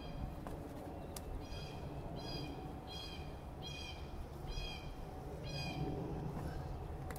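A bird calling over and over: six short, pitched calls a little under a second apart.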